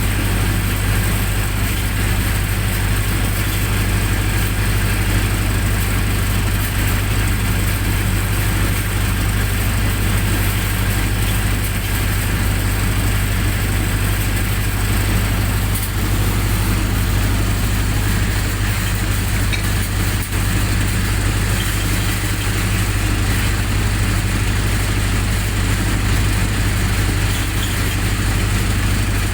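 Generator set's engine running steadily at a constant speed, with a loud low hum.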